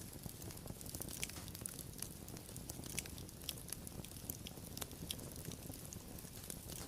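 Wood fire burning, with a steady low rumble under frequent small, irregular crackles and pops.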